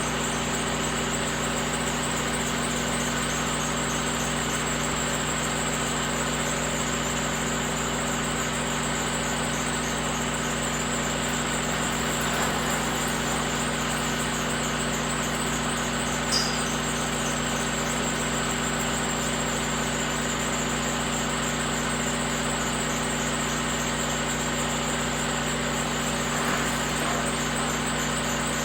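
Diesel engine idling steadily, with no change in speed, with a single brief click about 16 seconds in.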